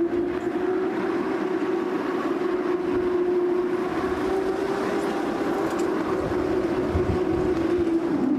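Narrow-gauge railway coach running along the track: a steady droning hum over a low rumble, dipping slightly in pitch near the end.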